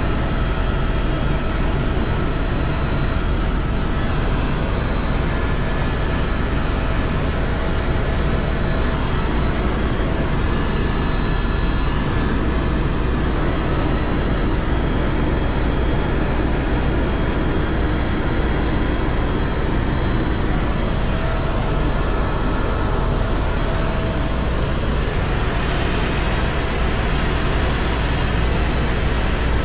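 Helicopter in steady cruise flight: the constant drone of rotor and turbine, heaviest in the low end, with a few faint steady whines above it.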